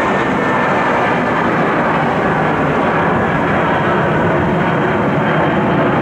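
Jet airliner engines, a loud, steady rushing noise that neither rises nor falls.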